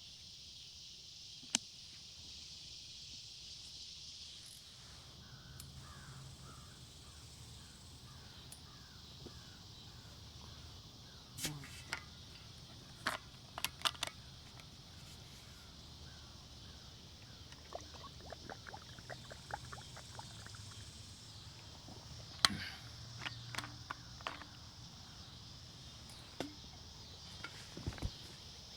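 Steady high-pitched drone of insects in the woods, with faint short chirps between about five and ten seconds in and a scattering of sharp clicks and rustles, the loudest about a second and a half in and at around twenty-two seconds.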